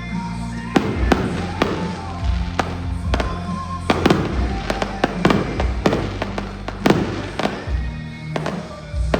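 Fireworks going off in a rapid, irregular string of sharp bangs starting just under a second in, over music with a steady bass line.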